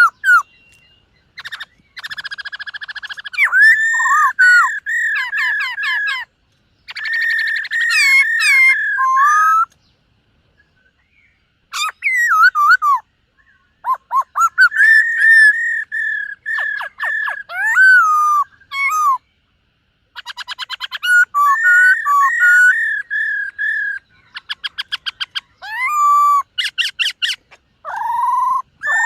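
Black-throated laughingthrush (khướu bạc má) singing in loud bouts of clear whistled notes and fast rattling trills, broken by short pauses of a second or two.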